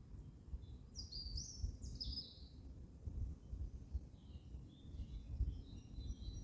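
A small songbird singing: a quick, high, gliding phrase about a second in, then softer twittering near the end, over a low, uneven rumble.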